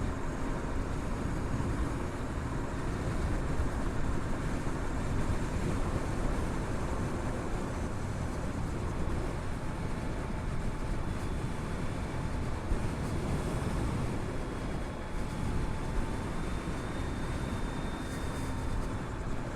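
Steady wind and road noise from riding a Harley-Davidson LiveWire electric motorcycle, heard through a chin-mounted helmet camera, with faint steady tones over the rush and no engine sound.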